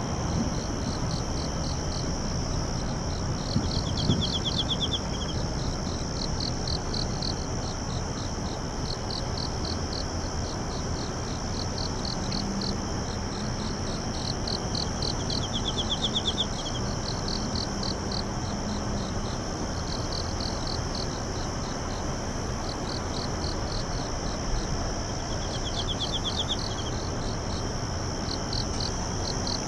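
Crickets and other singing insects chirping: a steady high ringing, rows of quick regular chirps, and a separate short trill about every ten seconds, over a steady low hiss.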